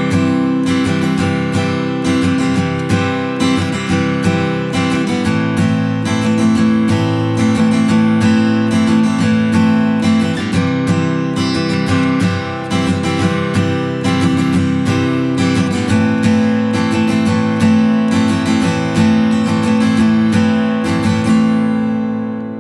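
Taylor Builder's Edition 324ce acoustic guitar strummed in a simple steady pattern, switching between C major and A minor chords held four bars each. The strumming fades out and the last chord rings off near the end.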